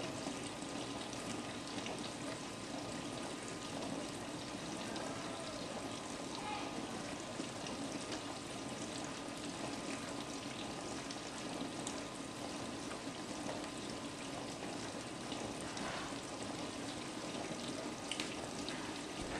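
Frigidaire Gallery dishwasher running its normal wash cycle: a steady spray of water from the top wash arm against the plastic tub, over a low hum from the pump motor.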